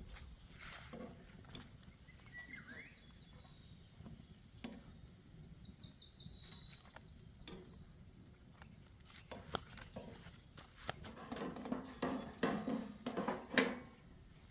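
Utensil knocking and scraping in a frying pan of pancakes on a small wood-fired stove, with scattered clicks at first and a busy run of clatter in the last few seconds.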